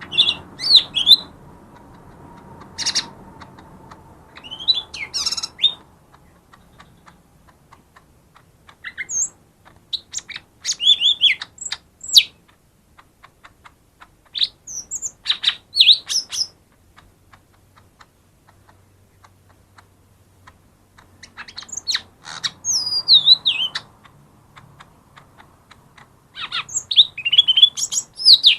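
Cucak ijo mini, a small green leafbird, singing in bursts of quick, chattering phrases of rising and falling high notes. The bursts come every second or two, with a longer pause about two-thirds of the way in.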